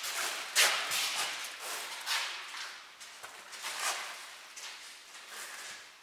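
Footsteps scuffing on a hard floor, about one to two a second, growing fainter toward the end.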